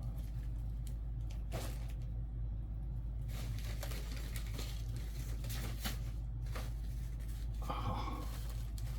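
Steady low hum under scattered light rustles and clicks of objects being handled and moved around on a desk.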